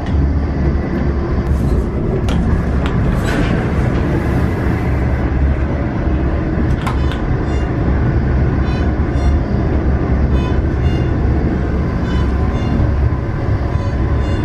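Steady low rumble of the Haramain high-speed train in motion, heard from inside the carriage, with a few sharp clicks in the first few seconds.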